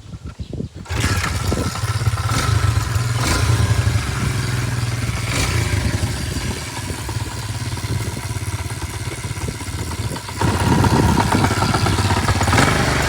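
Pit bike's small single-cylinder engine kick-started, catching about a second in and then running steadily. It runs louder over the last few seconds.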